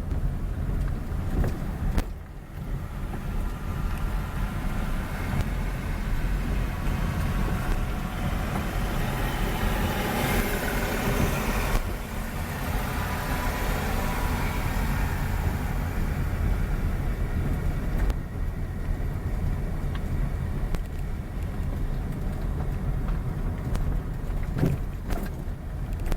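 Road vehicle noise: a steady low rumble, with a louder rushing swell that builds and fades about ten seconds in.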